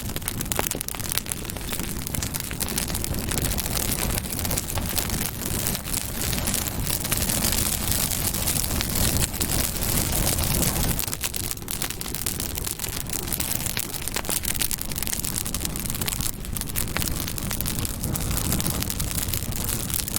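Campfire burning: a steady rushing hiss of flames with many small crackles and pops from the burning wood.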